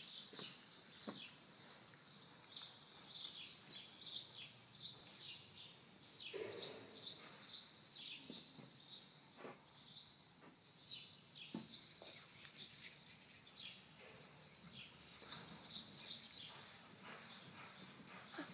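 Small birds chirping over and over in quick, high chirps, with a few faint knocks in between.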